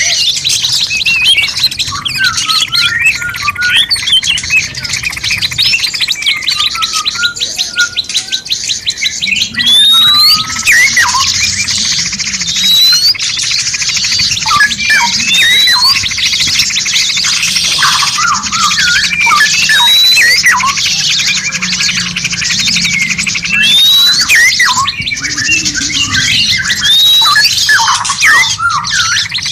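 Several songbirds singing over one another in a dense chorus: a continuous buzzy, rattling trill, many short chirps, and, from about a third of the way in, a short rising whistled note repeated every second or two.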